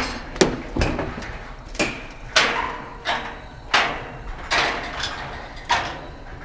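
Footsteps on metal scaffolding, about eight irregular clanging steps, each with a short ringing decay.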